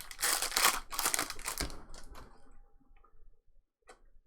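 Foil trading-card pack wrapper crinkling and tearing open for about a second and a half, followed by a few soft clicks of cards being handled.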